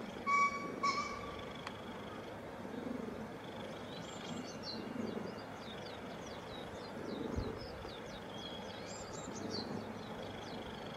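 Outdoor ambience with wild birds calling: two short steady-pitched calls near the start, then a long run of quick high chirps through the middle and towards the end, over a steady background hiss.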